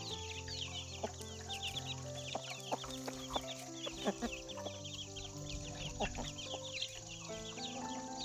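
Many chicks cheeping constantly in quick, high-pitched peeps, with a few scattered clucks from the poultry, over soft background music of long held notes.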